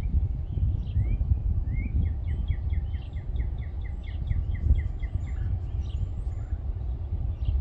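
A low, uneven rumbling noise throughout, with a songbird singing. About two seconds in, the bird gives a quick trill of about fourteen repeated chirps lasting a couple of seconds, and other chirps are scattered around it.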